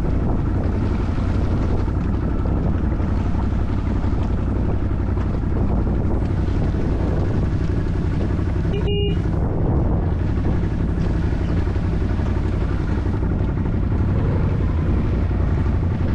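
ATV engine running steadily under load.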